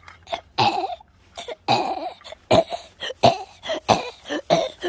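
A person's voice making a rapid run of short, rough cough-like noises, about ten in all.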